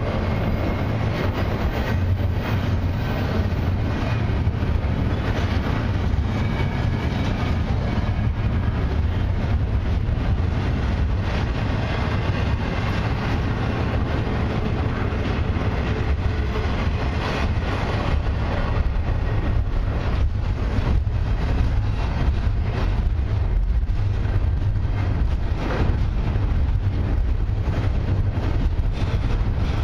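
Double-stack container well cars of a long freight train rolling slowly past: a steady low rumble of steel wheels on the rails, with scattered clicks and knocks.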